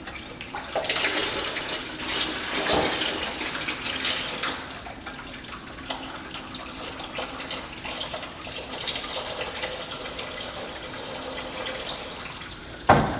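Liquid running and splashing steadily, with small irregular crackles.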